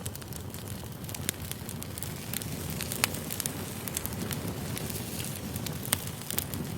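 Wood campfire burning steadily, crackling with irregular sharp pops over a low, even rumble of flame.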